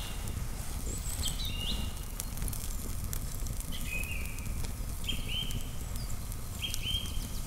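Sausages sizzling over a campfire's embers, with scattered small crackles from the fire. A bird calls repeatedly over it in short high paired notes.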